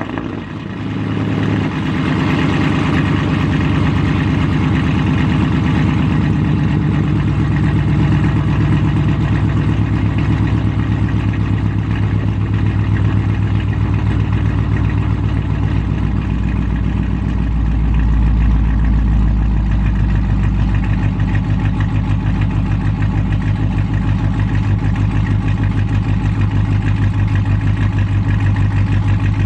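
Chevrolet Camaro 2SS's V8 idling steadily just after being started, briefly a little louder and deeper a little past halfway.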